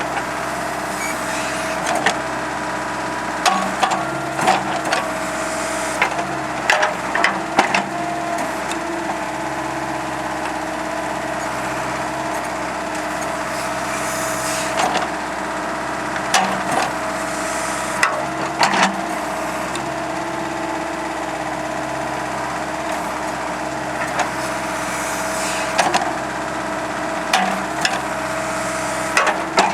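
Ford 555D loader backhoe's diesel engine running at a steady speed, with clusters of sharp knocks and clanks a few times over.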